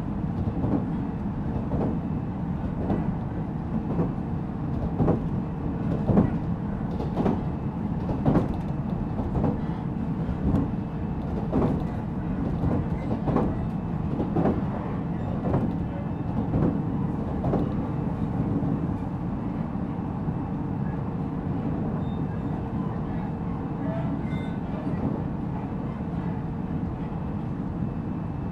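Running sound inside a JR Central 313 series 0-subseries electric train's motor car (MoHa 313-7) under way: a steady rumble of wheels on rail, with regular clicks of the wheels over rail joints about once a second that thin out in the second half. A steady hum runs under it and drops away near the end.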